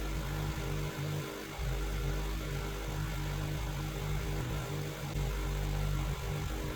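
Gas pressure washer engine running steadily, with an even hiss over it.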